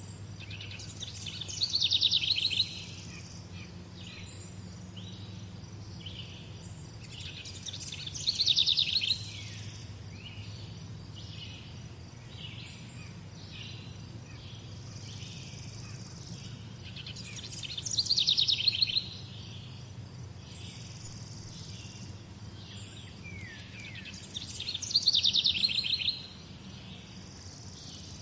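Songbirds singing: one bird repeats a short, fast trilled song four times, every seven to nine seconds. Softer chirps from other birds fill the gaps, over a steady low hum.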